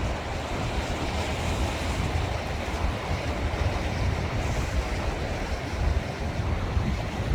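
Sea waves washing ashore in a steady rush, with wind buffeting the microphone in a gusty low rumble.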